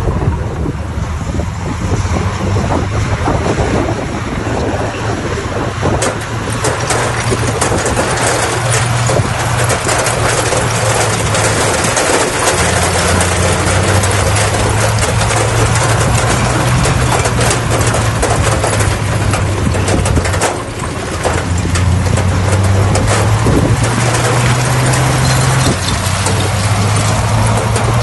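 Bulldozer's diesel engine running under load, its pitch stepping up and down several times with a brief drop about 20 seconds in, with a dense rattling clatter over it throughout.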